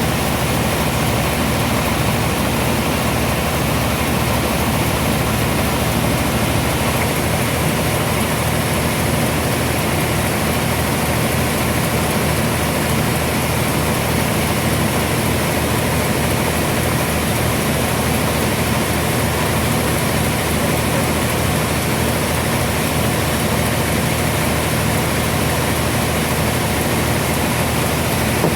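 Sawmill machinery running steadily, with a constant engine-like hum.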